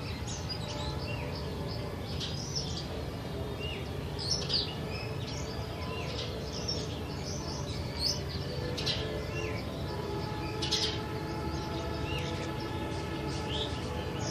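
Birds chirping in short, high calls, a few every second, with a steady low hum underneath.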